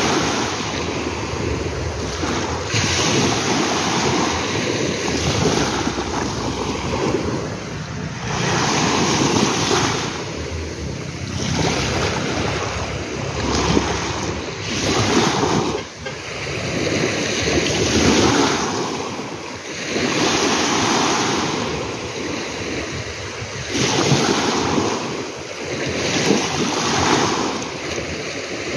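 Ocean surf: waves washing in, the rush of water swelling and easing every few seconds.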